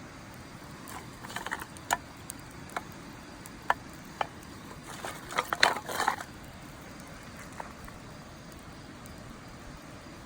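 Wood fire burning in a steel fire pit, crackling with sharp pops, scattered at first and then a quick cluster about five to six seconds in.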